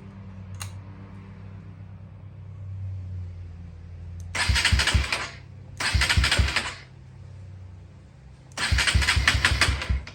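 Honda XR150L motorcycle engine being cranked three times in short bursts with a rhythmic chug, never catching. It fails to start because of a button he forgot to push first.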